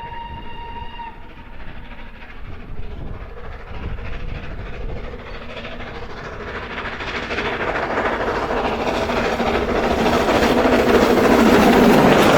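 A steam locomotive's whistle holds one note and stops about a second in. Then a train approaches, its running noise growing steadily louder to a peak near the end.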